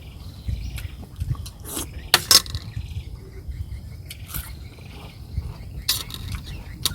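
Eating sounds: scattered sharp clicks and crunches of chewing and utensils, loudest a couple of seconds in, over a faint steady high insect drone.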